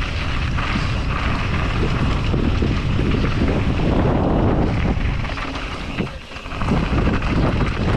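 Heavy wind noise buffeting a moving mountain biker's camera microphone during a downhill run, easing briefly about six seconds in.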